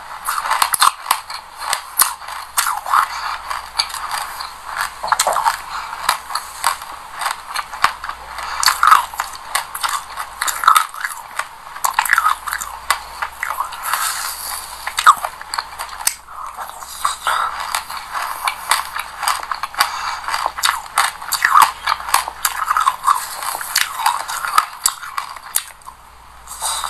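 Close-up crunching and chewing of a mouthful of sesame seeds with passion fruit pulp and seeds: a dense, irregular run of small, crisp crackles.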